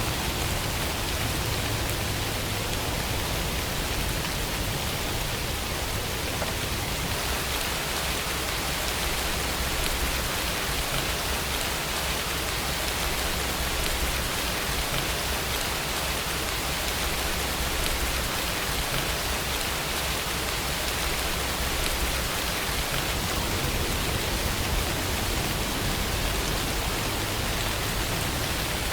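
Steady rainfall, a dense even hiss of many drops with a low rumble underneath.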